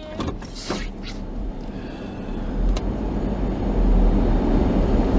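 A car driving, its engine and road noise steady and growing louder over the first few seconds as it picks up speed, with a few light clicks near the start.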